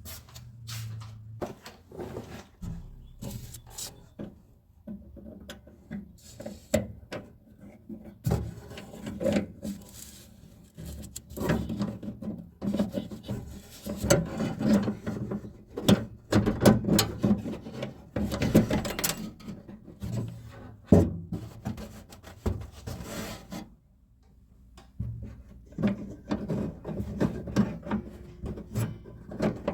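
Parts and tools being worked by hand on a car door: irregular rubbing and scraping with sharp clicks and knocks, busiest in the middle and pausing briefly about 24 seconds in.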